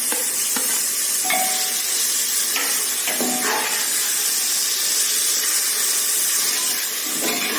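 Onion, ginger-garlic and curd masala frying in hot oil in a pressure cooker pan, sizzling steadily, with a few faint scrapes of the stirring spoon as sliced tomatoes go in.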